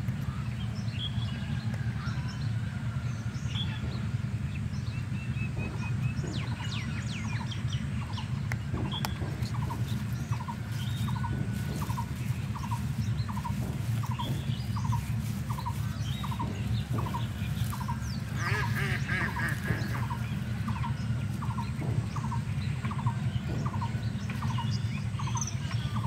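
Birds chirping and calling, with one short note repeating at an even pace, about three every two seconds, through most of it and a denser flurry of calls partway through, over a steady low rumble.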